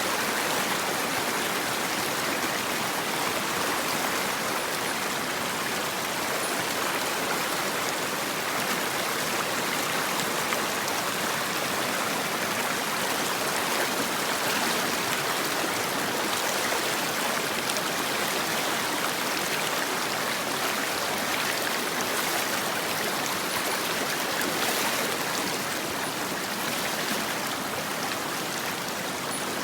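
Mountain stream rushing steadily over rocks: a continuous, even water noise with no pauses.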